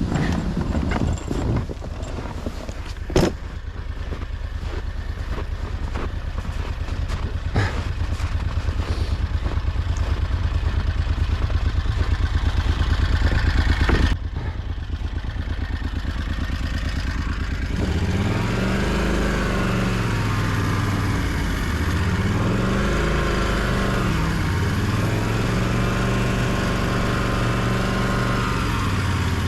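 Homemade snowmobile's engine running under way, its speed creeping up over the first half, dropping about halfway through, then rising and falling again and again as the throttle changes. A couple of sharp knocks come early on.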